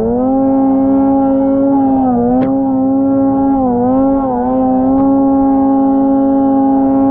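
Snowmobile engine running hard at high, nearly steady revs, its pitch dipping briefly a few times as the throttle eases and comes back on.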